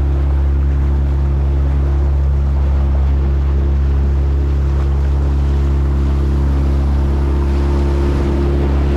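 Outboard motor of a small boat running at a steady speed under way, an unchanging low engine note, with a hiss of water and wind.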